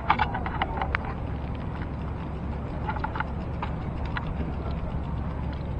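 Steady low rumble of wind and road noise while riding a bicycle, with a quick cluster of sharp clicks in the first second and a few more about three seconds in.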